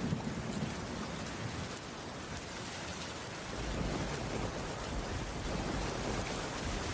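Steady rainfall on a cabin roof, an even hiss, with a low rumble beneath it that dies down about two seconds in and swells again a little later.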